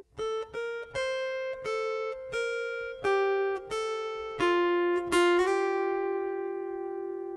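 Music: a guitar picking a slow run of single notes, about ten of them, with the last note left to ring out.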